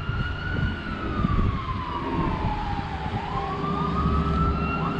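RC buggy's electric drive motor whining under throttle. The pitch holds high, sinks slowly over a couple of seconds, then climbs again about three seconds in, with quick rises near the end and a low rumble underneath.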